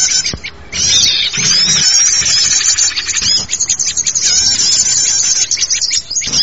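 Lure recording of many small forest birds chirping and calling together: dense, overlapping high chirps and short falling whistles, with a brief lull about half a second in.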